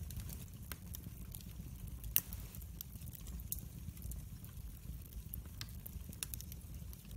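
Fire in a fireplace crackling with irregular small pops over a low steady rumble, with one sharper pop about two seconds in.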